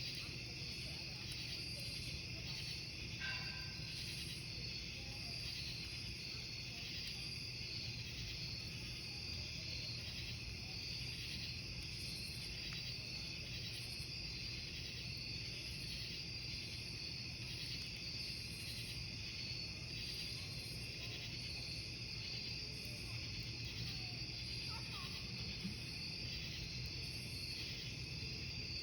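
Crickets chirping in a dense, steady chorus, over the low, even noise of a wood campfire burning.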